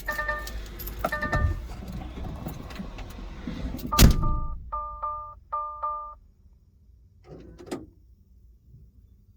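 Truck cab sounds with a low running rumble, clicks and knocks, and a loud thunk about four seconds in. A repeating electronic warning chime follows in three short bursts, then the rumble stops and it goes quiet.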